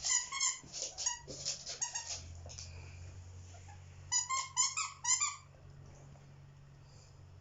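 Dogs playing tug-of-war with a toy, giving quick runs of short, high-pitched yips and squeals: one run in the first two seconds and another about four seconds in.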